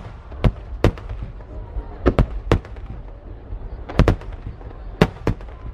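Aerial firework shells bursting overhead, about nine sharp bangs in irregular quick pairs and clusters, over a steady low rumble.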